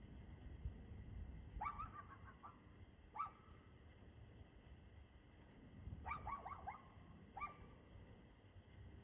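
A dog barking faintly in quick runs: a string of barks about a second and a half in, a single bark near three seconds, then another string around six seconds and one more bark just after seven.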